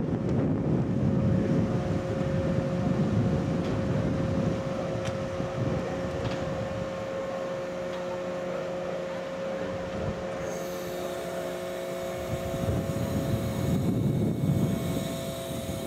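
A small aircraft's motor hums at a steady pitch under heavy wind buffeting on the microphone; the buffeting eases in the middle and swells again near the end, and a higher hiss comes in about two-thirds of the way through.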